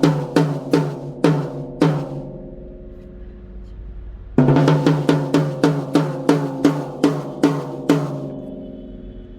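Mapex Black Panther 14×4.5 snare drum struck in two runs of hits, about two to three a second, each run left to ring out with a clear pitched ring; the second run starts about four and a half seconds in.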